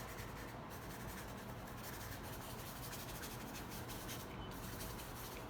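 Paintbrush dry-brushing paint onto a canvas: faint, continuous rubbing and scratching of many short strokes.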